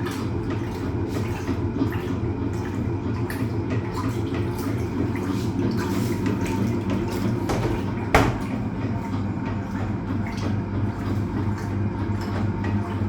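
Hoover Automatic 820 washing machine agitating a load partway through its wash: a steady motor hum with water sloshing. A single sharp knock comes about eight seconds in.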